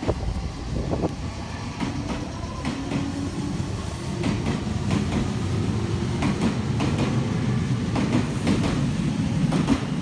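Train running on rails, its wheels clicking over rail joints at irregular intervals above a steady low rumble, with a low steady hum joining a few seconds in.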